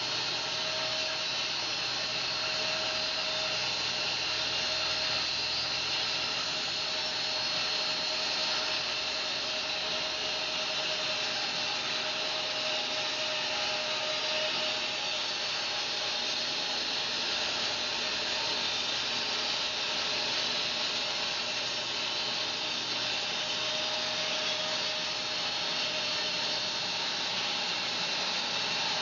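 Home-built bandsaw sawmill running steadily through a fir log: an even rushing noise with a faint steady whine, unchanged throughout.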